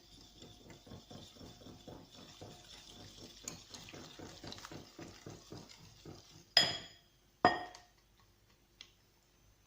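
Pancake batter being stirred in a bowl: quick, even strokes, about five a second, for six seconds. Then two loud, sharp clinks of the utensil against the bowl, about a second apart.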